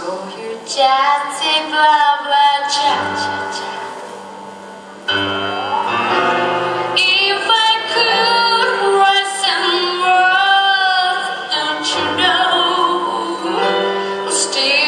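Music with singing: women's voices sing sustained notes with vibrato over an accompaniment. A rising glide comes about six seconds in, and it gets louder from about five seconds in.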